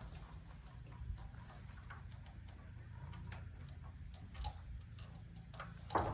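Scattered light clicks and taps over a steady low hum, with a louder knock near the end.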